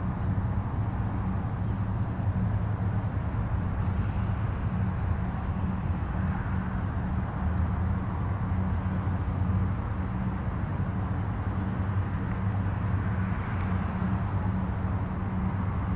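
Distant highway traffic: a steady low rumble of engines and tyre noise, swelling slightly as vehicles pass about six seconds in and again near the end.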